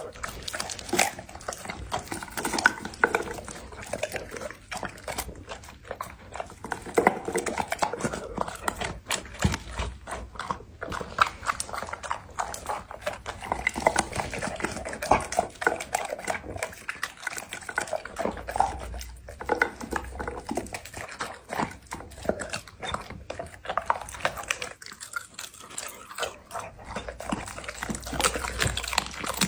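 A Labrador eating a raw meal, with close, irregular wet chewing and crunching.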